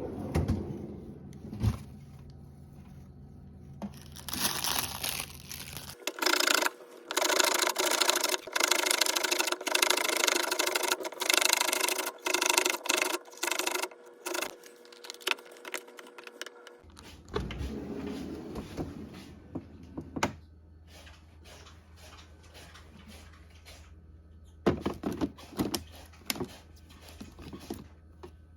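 Objects being handled and scraped at close range: many short clatters and knocks, thickest in the middle stretch and again near the end, over a low steady hum in the quieter parts.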